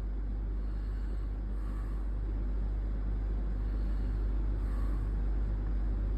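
Steady low background rumble with a constant low hum, no distinct events.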